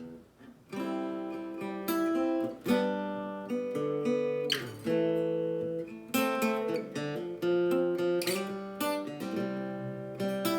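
Guitar strumming a chord progression in C: C, G, A minor, F, with the F climbing up. The playing starts just under a second in, and the chords change about every two seconds.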